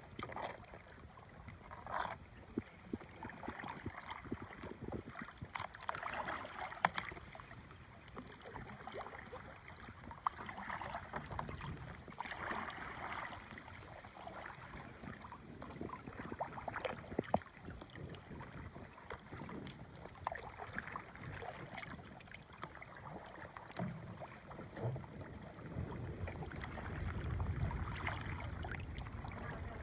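Kayak paddle strokes splashing in the water every few seconds, with small clicks and knocks between them and a low rumble near the end.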